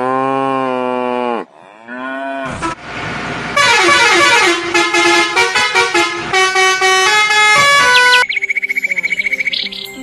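A sound-effect and music sequence. A long pitched horn-like call bends down at its end, and a short second call follows. Then come several seconds of bright music with quick notes, and near the end a rapid warbling trill.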